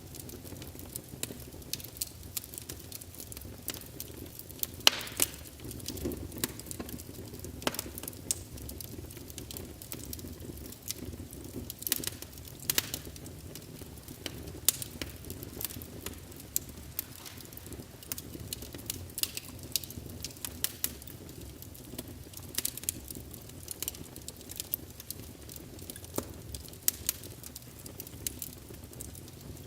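Wood fire burning in a fireplace: a steady low rumble of flames with frequent irregular crackles and pops, a few sharper than the rest.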